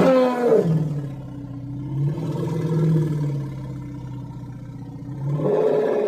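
Woolly mammoth sound effect: one long call that opens high and falls, holds as a low, drawn-out growl, and climbs higher again near the end before cutting off.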